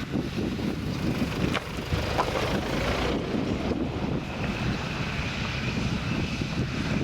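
Massey Ferguson tractor engine running with a McHale baler working behind it, a steady low rumble with a sharp click early on and a steady high whine from about halfway.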